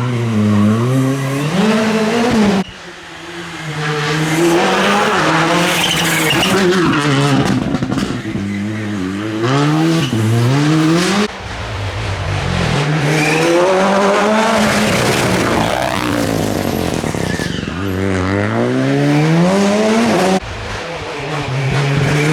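Rally car engines at full throttle, their pitch climbing and dropping again and again through the gear changes as the cars drive the stage. The sound breaks off abruptly three times and picks up again.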